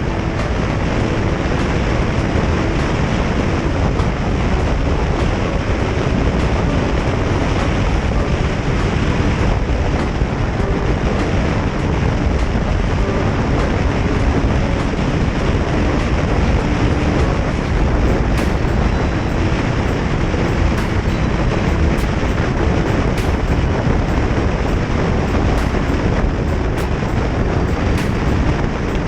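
Motorcycle riding at a steady pace: the engine running under a constant rush of wind on the microphone.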